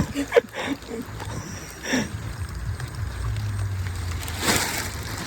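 Water gurgling and sloshing around a small boat, with a few short knocks and a low steady hum for about a second near the middle.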